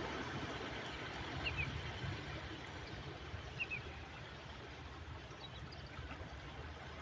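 Steady wash of sea surf along the shore. A bird gives two pairs of short chirps, about one and a half and three and a half seconds in.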